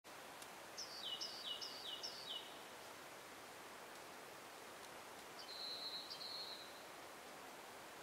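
Birdsong over a steady forest hiss: a bird gives four quick repeated phrases, each a high note dropping to a lower one, starting about a second in, then one longer held whistle with a short flick, a little past the middle.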